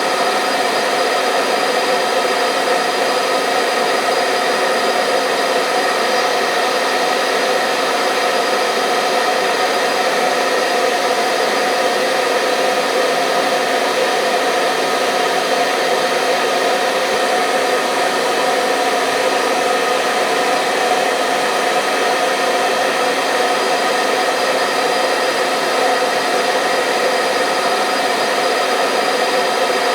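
Hair dryer running steadily: a constant airflow rush with a steady motor whine, played continuously as white noise for soothing a baby to sleep.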